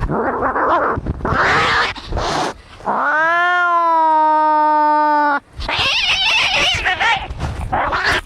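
Cats fighting: harsh, noisy screeching cries, broken about three seconds in by one long drawn-out yowl that rises at first and then holds for over two seconds, followed by more screeching.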